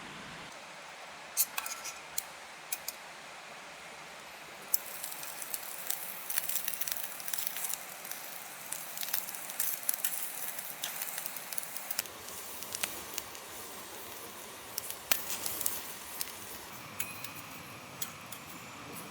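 Small campfire crackling: scattered sharp pops over a steady hiss, with a denser run of crackle and sizzle from about five to twelve seconds in.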